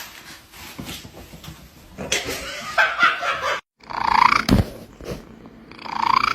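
A pet animal's vocal cries, a few drawn-out calls, with a brief total dropout a little past halfway and a short low thump just after it.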